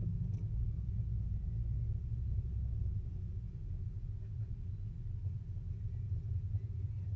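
A car engine running at low speed, a steady low rumble.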